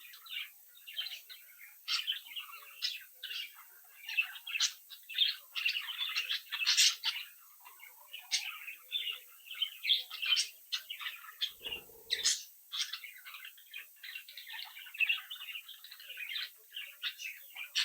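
Several budgerigars chattering and warbling together, a dense, unbroken stream of quick chirps and twitters. A brief soft rustle or bump is heard about two-thirds of the way through.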